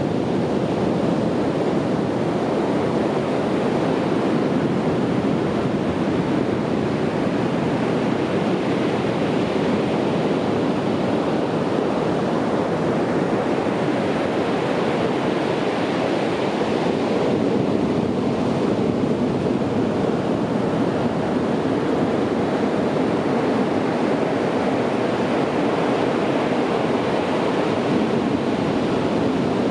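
Sea waves breaking on a beach, a continuous wash of surf that swells gently and eases off.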